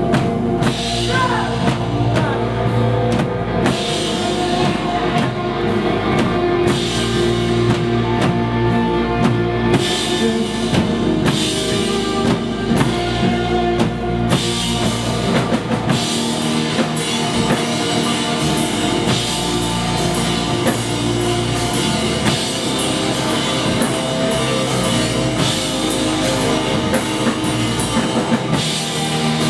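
Live indie rock band playing an instrumental passage: drum kit with cymbals, electric guitars and bass. The bass drops out about halfway through.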